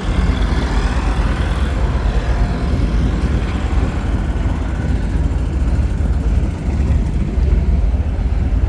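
Steady low rumble of motor vehicles running close by, with no distinct events.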